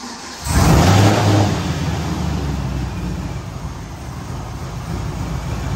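A car's engine starting: it fires up with a loud flare of revs about half a second in, then settles into a steady idle.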